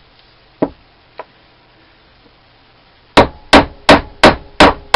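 Hammer striking the metal of a lathe tool post to knock a stuck part loose. There is one blow and a light tap, then a quick run of six hard blows, about three a second, near the end, with the metal ringing after them.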